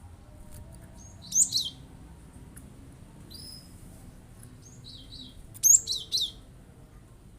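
Cinereous tit (glatik batu) calling in short, sharp bursts of high, falling notes: 'shot' phrases. Two loud bursts come about a second and a half in and again about six seconds in, with fainter notes between.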